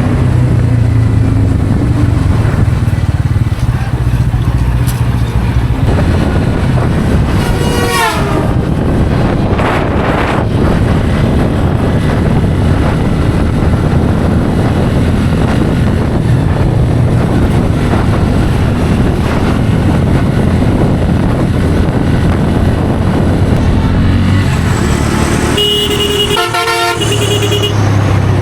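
Bajaj Pulsar N160's single-cylinder engine running steadily at road speed, heard through heavy wind and road noise. A vehicle horn honks in a quick series of short beeps near the end.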